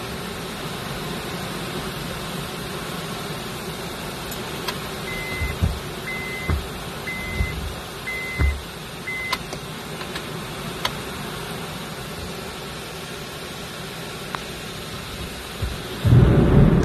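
Heavy rain beating steadily on a car's roof and windshield, heard from inside the car. Around the middle come five short electronic beeps about a second apart, along with a few dull thumps. Near the end a loud clap of thunder breaks in, the loudest sound here.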